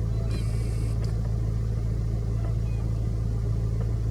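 Steady low motor hum, even throughout, with a brief high tone early on and a few faint chirps.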